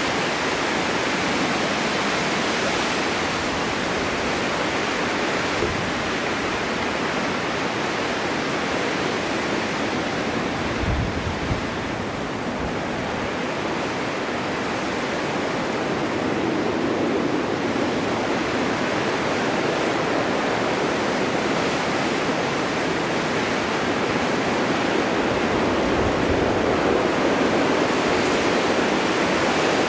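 Winter wind blowing steadily through a forest in a snowstorm, a continuous rushing that swells and eases slowly, with brief low gusts buffeting the microphone about eleven seconds in and again near the end.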